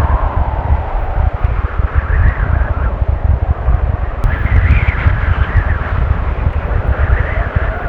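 Strong gale-force wind gusting, buffeting the microphone with a heavy low rumble and a rushing howl that swells and fades every second or two.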